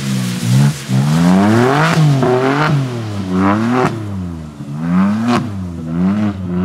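BMW M3 G80's twin-turbo straight-six revving up and down over and over, roughly once a second, as the throttle is worked to hold the car in a slide on a wet skid pad.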